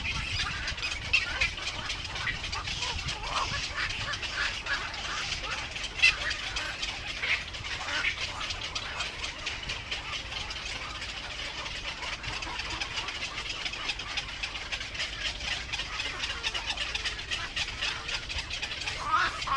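Birds chirping: a dense run of short high calls that never lets up, over a low steady rumble.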